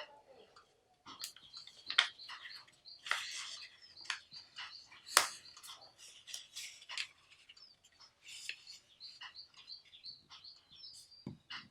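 Sheet of origami paper being folded and creased by hand: irregular crisp crinkles, rustles and sharp crease snaps, with the loudest snaps about two and five seconds in.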